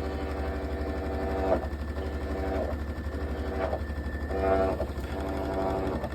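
Hitachi BD-V9400 drum washing machine in its spin cycle, making an abnormal buzzing scrape that breaks off with a sharp scratch about once a second, over a steady low motor hum. The noise is the wire from a face mask caught in the drum, as the owner believes.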